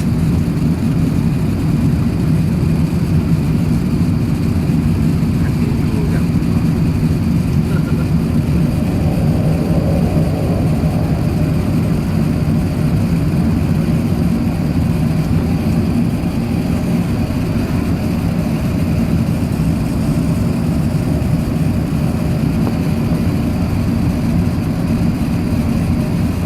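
Steady low drone of an Airbus A380-861 heard from inside the passenger cabin: the jet engines and airflow running evenly, with no change in level.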